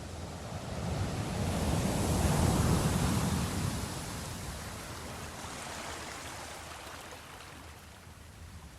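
Ocean waves on a shore: one wave builds and breaks about two seconds in, then washes out and fades.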